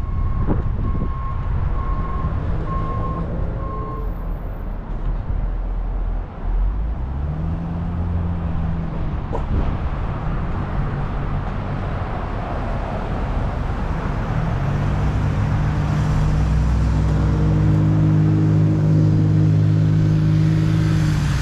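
Motor vehicle engine running, its pitch rising about seven seconds in and holding steady and strong through the last several seconds. A row of short, evenly spaced high beeps sounds in the first four seconds.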